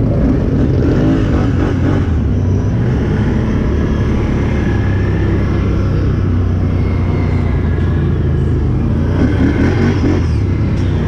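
Can-Am 1000's engine running steadily under way, a low even drone with no big revs, mixed with the noise of the ride.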